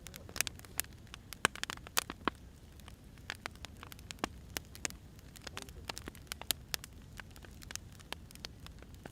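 Burning firewood crackling: irregular sharp pops and snaps, several a second, over a low steady rumble of the fire.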